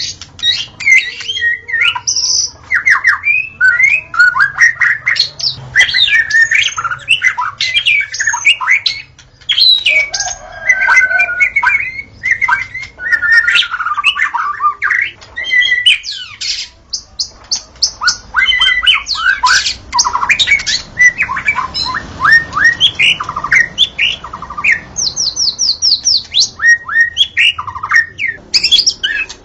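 White-rumped shama (murai batu) singing a continuous, varied song of clear whistles, sliding notes and rapid trills, with only brief pauses.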